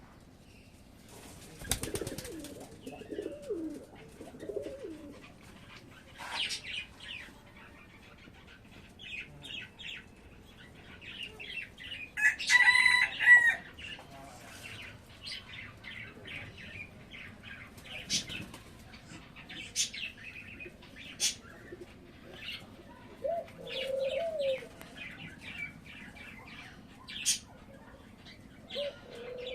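Doves cooing in low, soft phrases, with a burst of wing flapping about two seconds in and many short, high bird chirps throughout. A louder, higher-pitched call about twelve seconds in is the loudest sound.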